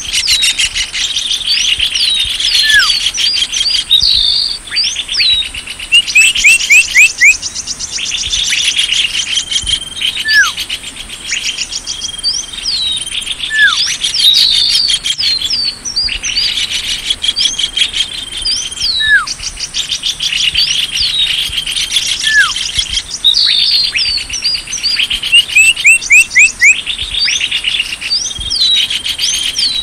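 Bird-lure recording of small songbirds: a dense mix of sharp, high, down-slurred chirps and fast twittering trills that keeps repeating, with louder bursts of rapid chattering about six seconds in and again near the end.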